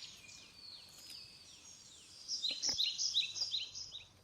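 Garden songbird calling: a series of short whistled notes, each sliding downward, then about two seconds in a quicker, louder run of chirps that fades out near the end.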